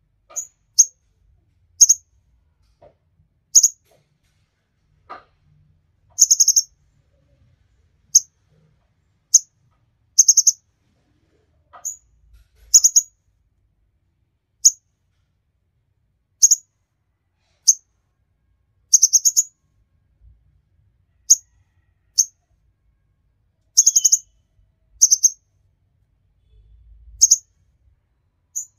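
A small songbird giving short, high-pitched chirps, singly or in quick runs of two or three, at irregular intervals of about one to two seconds.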